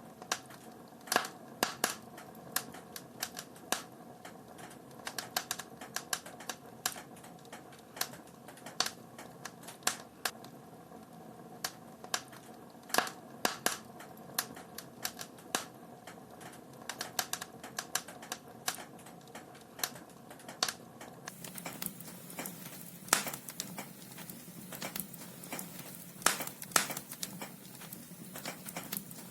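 Wood fire burning in a fireplace: burning logs crackling with irregular sharp pops and snaps, several a second, over a soft steady hiss.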